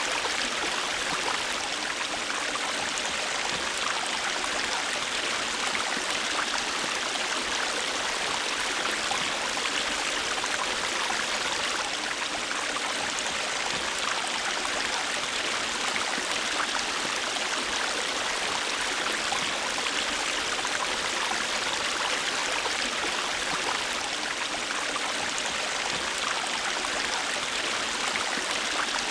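River water rushing and babbling, a steady even flow with a fine splashing texture.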